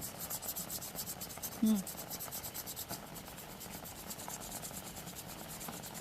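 Stick of store-bought charcoal held flat and rubbed quickly back and forth over paper laid on a clover, an even scratching of several strokes a second.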